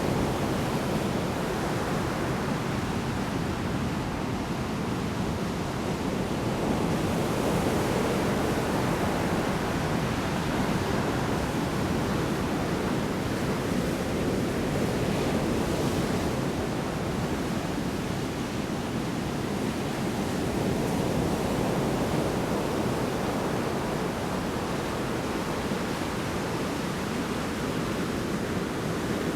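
Heavy surf in a storm: big waves breaking and rolling onto the shore in a continuous dense roar that swells and eases slowly.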